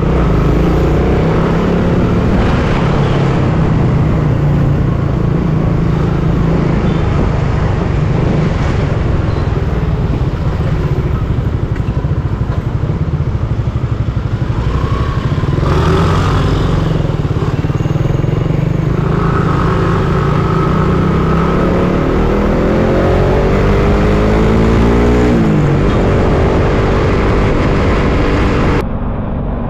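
Suzuki Raider 150 Fi motorcycle's single-cylinder engine running under way in traffic, its pitch rising several times in the second half as it accelerates through the gears, with wind and road noise.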